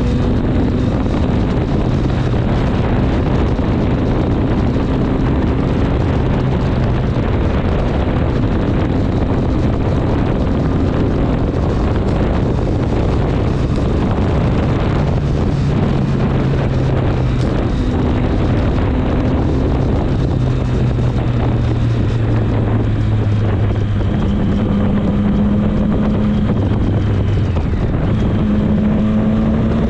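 Triumph Street Triple 765 S's three-cylinder engine running while riding, its pitch stepping up and down with throttle and gear changes and rising near the end. Wind rushes over the microphone throughout.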